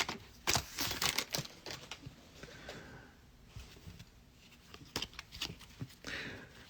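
Faint scattered clicks and rustles of trading cards and foil pack wrappers being handled, busiest at the start and again near the end, with a quiet stretch in the middle.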